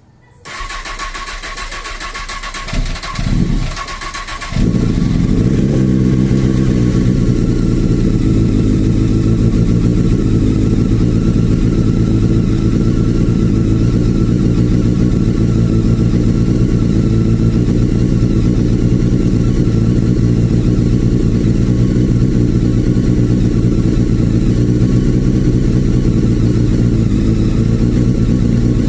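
Honda CBR 954 RR inline-four engine being started: the starter cranks with a whirring whine for about four seconds, the engine fires with a couple of stumbles, then catches and settles into a steady idle.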